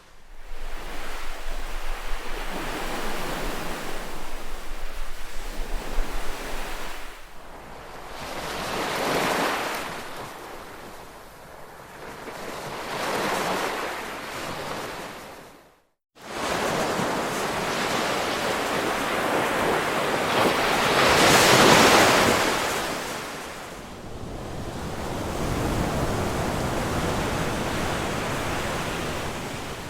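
Ocean surf: waves breaking and washing in, swelling and fading every few seconds, with the loudest surge about two-thirds of the way through. The sound cuts out completely for a split second about halfway.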